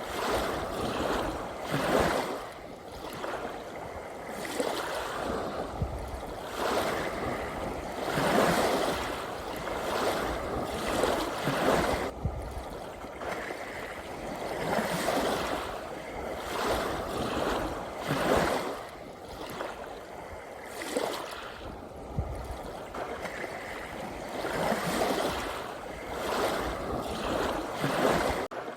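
Ocean waves washing in and out, a steady rush of water that swells and falls back every few seconds.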